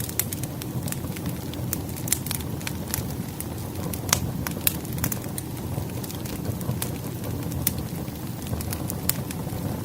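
Firewood burning in a fireplace: a steady low rumble of flames with frequent sharp, irregular crackles and pops, a couple of louder snaps about four and a half seconds in.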